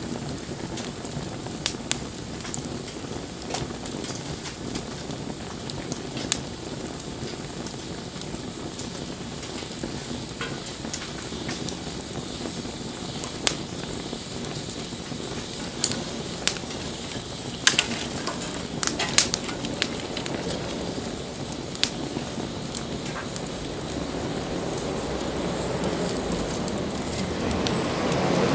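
Wood bonfire burning with a steady hiss, broken by sharp crackles and pops at irregular intervals, several close together about two-thirds of the way through. A louder rushing noise builds near the end.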